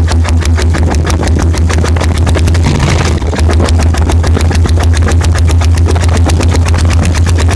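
Diesel engine running loudly at a steady speed, its exhaust beating in an even rhythm of about seven beats a second over a deep steady hum.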